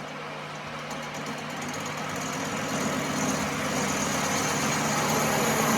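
A workshop machine running steadily, a constant hum that slowly grows louder.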